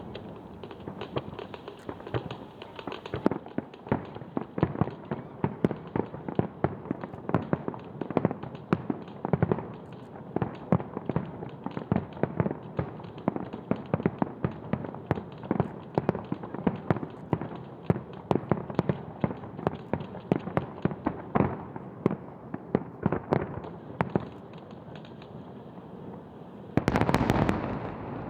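Aerial fireworks shells bursting one after another, several bangs a second, with a louder, denser flurry of bursts near the end.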